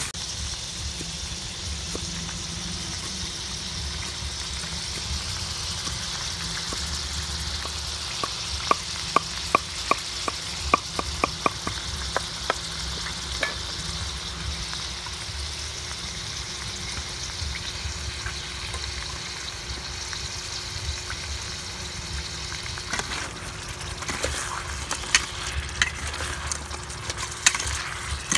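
Crabs frying in curry sauce in a steel pot, a steady sizzle as they are stirred. A run of sharp clicks comes in about a third of the way through, and more clicks come near the end.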